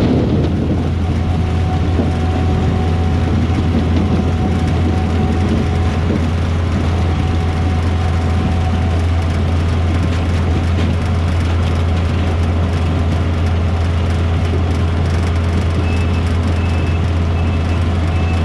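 Engine of a Kleine SF10.2 self-propelled sugar beet harvester running steadily, a deep even drone. Near the end a short high beep starts repeating about twice a second.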